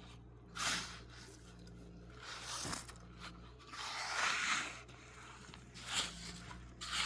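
A few short scraping sounds, the longest about four seconds in.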